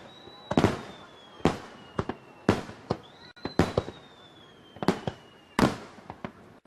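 Fireworks display: aerial shells bursting in quick, irregular succession, about ten sharp bangs in a few seconds, each trailing off in an echo.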